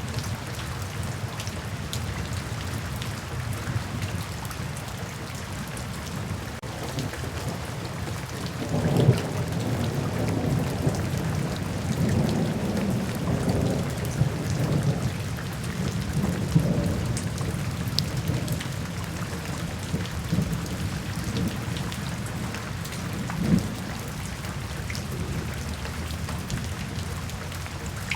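Steady rain falling, with a low roll of thunder that builds about a third of the way in and rumbles on for several seconds, and a shorter rumble near the end.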